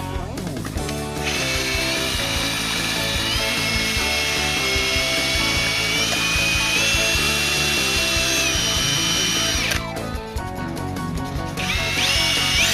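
Electric drill whining as it spins an aluminium frame slider against 800-grit sandpaper. Its pitch steps up and down with the trigger, and it stops briefly just at the start and again about ten seconds in.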